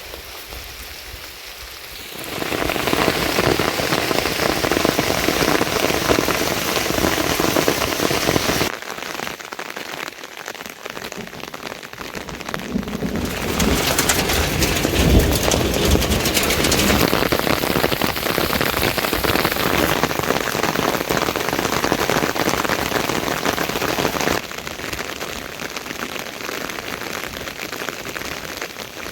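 Heavy rain pouring down, a steady hiss that gets abruptly louder or softer several times.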